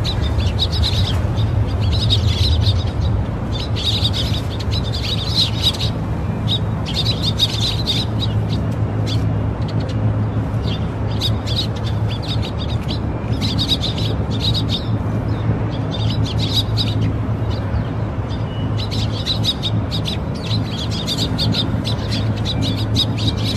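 Small birds chirping in repeated bursts of rapid high calls with short pauses, over a steady low hum.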